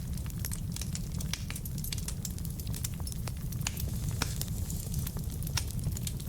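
Wood fire burning in a fireplace: a steady low rumble of flames with many sharp, irregular pops and crackles from the logs.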